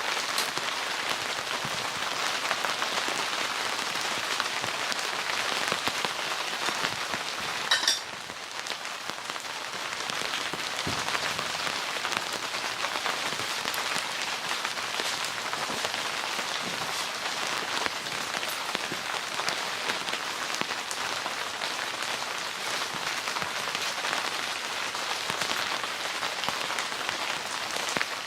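Steady rain falling, a dense patter of drops. There is a brief louder burst just before eight seconds in, after which the rain is slightly quieter.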